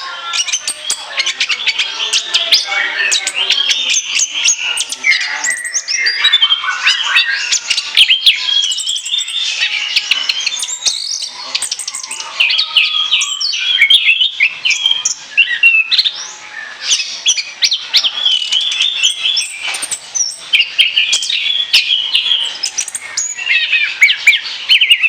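Orange-headed thrush singing nonstop: a fast, varied stream of chirps and whistles with only brief pauses.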